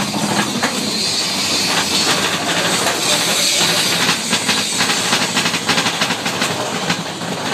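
Mine-train roller coaster cars running along the track: a loud, steady rush of noise with a rattling clatter of wheels on rail, the clicks coming thick and fast in the second half.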